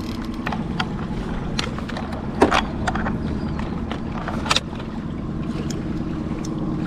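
Boat motor running steadily at trolling speed, a low even hum, with a couple of sharp knocks about two and a half and four and a half seconds in, and a few lighter taps.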